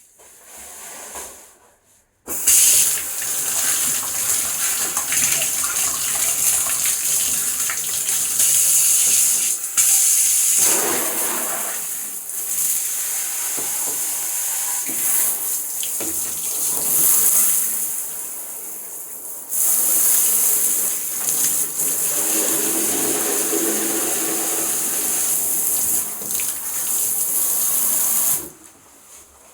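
Aerosol can of shaving foam spraying in a long, loud hiss that starts suddenly about two seconds in, eases briefly about two-thirds of the way through, then cuts off shortly before the end.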